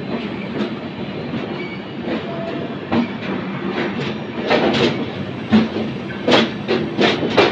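Passenger train coach moving out of a station: a steady rumble of wheels on rail, with a run of sharp clickety-clack strikes that grows louder in the second half as the wheels cross rail joints.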